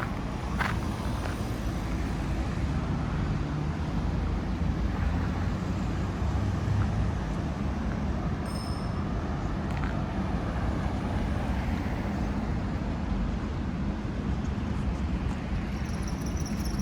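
Steady road traffic on a city street: passing car and truck engines and tyre noise, with a low engine hum loudest in the first half.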